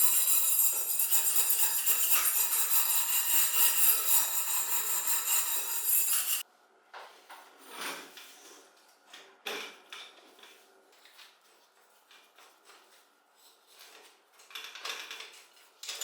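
A loud, harsh, steady metallic noise that cuts off abruptly about six seconds in, followed by scattered light clinks and knocks of small metal parts being handled.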